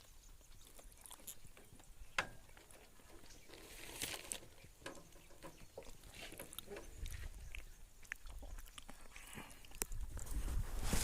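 Birds feeding on seeds and grain: scattered small pecking clicks and crunches as the seeds are picked up and cracked. A low rumble comes in about seven seconds in and again near the end.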